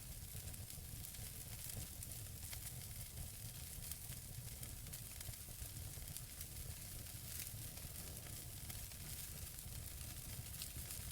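Wood fire burning in a fireplace: a steady hiss over a low rumble, with scattered sharp crackles and pops from the burning logs.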